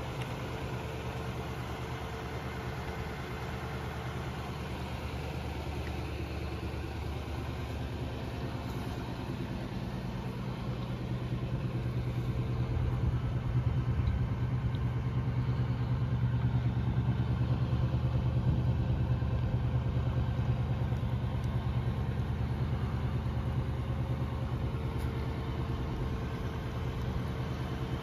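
1951 Lincoln Cosmopolitan's flathead V8 idling steadily, louder through the middle stretch, when heard from the rear by the exhaust.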